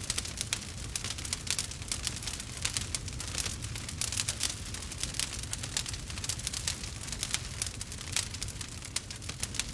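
Wood fire burning in a fireplace, logs crackling with a constant stream of small irregular pops and snaps over a low steady rumble.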